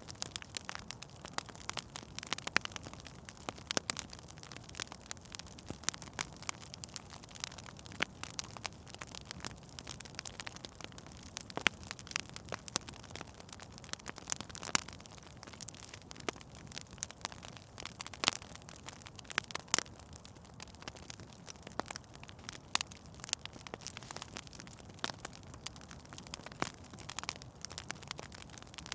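Fire burning in a fireplace, crackling: irregular sharp pops and snaps, several a second, over a steady low rush of the flames.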